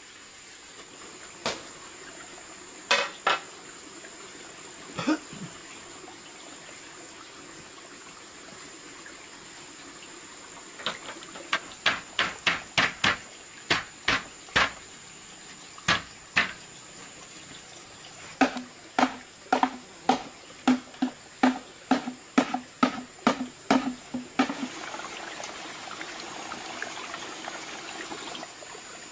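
Two runs of sharp knocks, about two a second, the later run with a low ringing note to each strike, after a few scattered knocks. A few seconds of steady hiss follow near the end.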